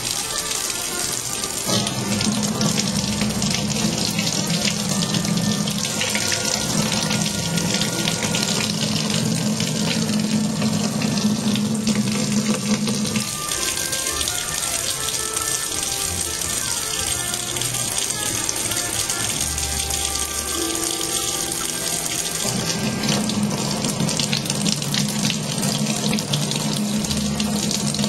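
Kitchen faucet running, a steady stream of water splashing into the sink and onto a cat drinking and wetting its head under it. The lower part of the splashing drops away about halfway through and comes back near the end.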